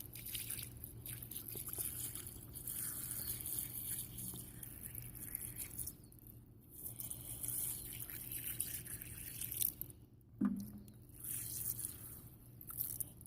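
Quiet water dripping and trickling, with a short falling tone about ten seconds in.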